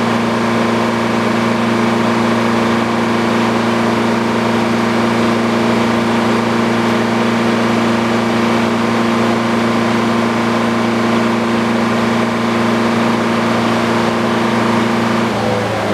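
Old Frick sawmill running steadily with no cut being made, a constant mechanical drone. Just before the end the drone breaks off and shifts in pitch.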